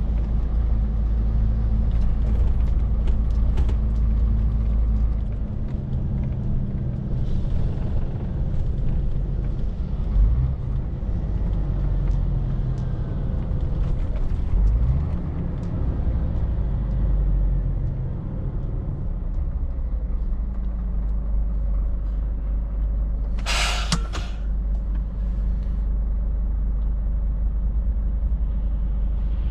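Scania R450's 13-litre straight-six diesel engine running while the truck is driven, its note rising twice as the revs climb. About three-quarters of the way through comes one short, sharp hiss of released air.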